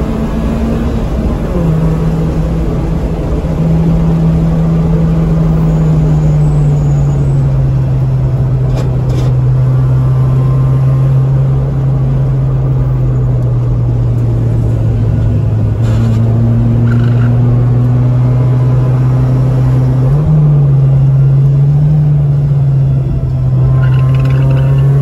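Ford Focus engine heard from inside the cabin while lapping a race track. The engine note holds steady and slowly sinks in pitch, then rises briefly about 20 seconds in, with tyre and road noise underneath.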